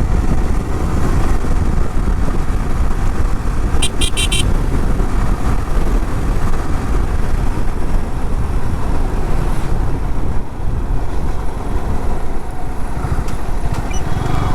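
Motorcycle riding sound: wind buffeting the microphone over the engine and road noise. A short horn toot of a few quick high beeps comes about four seconds in.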